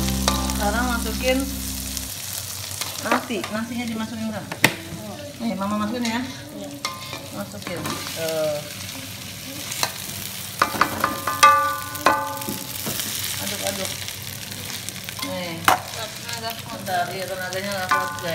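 Sausage and chilli sambal frying in an oiled wok while a metal spatula stirs and scrapes. Cooked rice is tipped in about halfway through, and the spatula knocks sharply against the pan several times. Faint wavering tones sound in the background.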